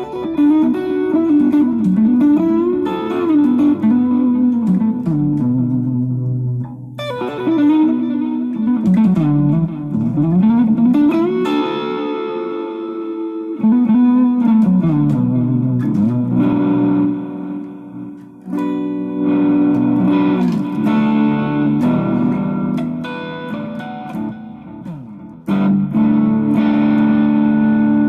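Electric guitar, fitted with a Duncan-style 102J treble bleed and an Orange Drop 223J tone capacitor, playing lead phrases through an amp, with sustained notes, string bends and vibrato. New phrases come in with a fresh attack several times.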